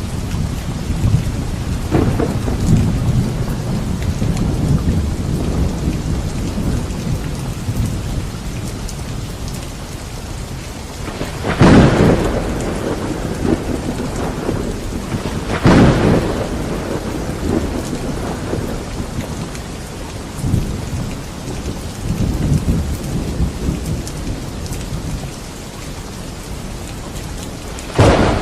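Thunderstorm: steady rain with low rumbling thunder, broken by loud, sharp thunderclaps twice near the middle and once more at the very end.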